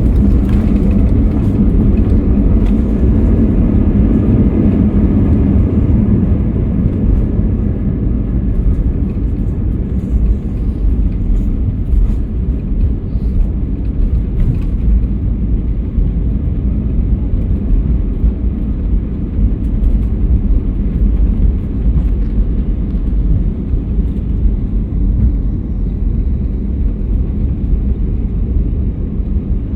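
Passenger jet's engine and airflow rumble heard from inside the cabin while the airliner is landing. It is loudest in the first few seconds, then eases to a steadier, slightly lower rumble.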